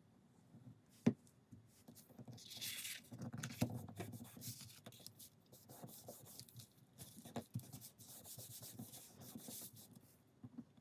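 Paper being rubbed and smoothed down by hand over a glued chipboard book cover, in spells of dry scraping rustle, with a single sharp tap about a second in.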